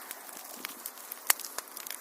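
Wood fire burning in a fireplace: a steady soft hiss with scattered crackles and snaps, and one louder pop just past halfway.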